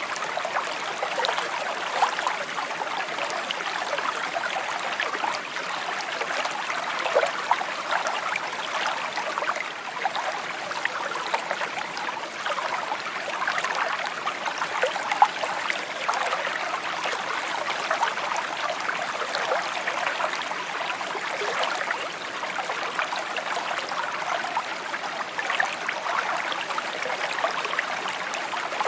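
Shallow stream babbling and trickling steadily over stones, with small splashes and gurgles scattered through it.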